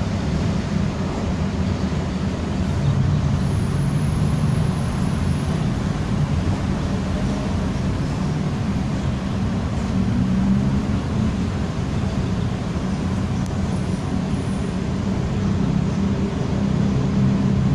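Steady low rumble of road vehicles running, as of street traffic.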